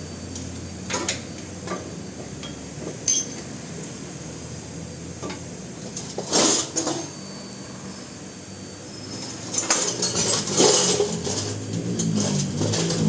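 Metal tools and parts clinking and clanking now and then during auto repair work, with louder clanks about six seconds in and again near ten seconds.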